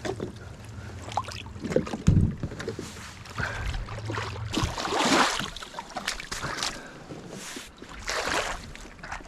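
Water splashing and sloshing around a kayak, with scattered knocks and clicks, and wind buffeting the microphone as a low rumble. The louder splashy swells come about halfway through and again near the end.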